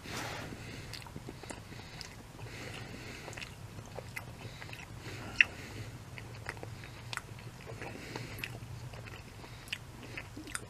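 A person chewing a mouthful of breaded chicken nugget dipped in ketchup: many small, soft mouth clicks, with one sharper click about five seconds in, over a low steady hum.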